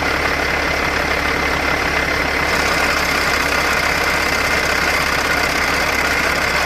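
Caterpillar C15 inline-six diesel in a Kenworth T800 idling steadily, with a thin steady high whine running over the engine noise.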